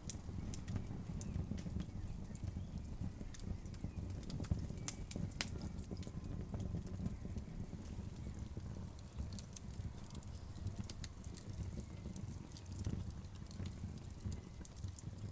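Burning logs crackling, with irregular sharp pops and snaps over a steady low rumble.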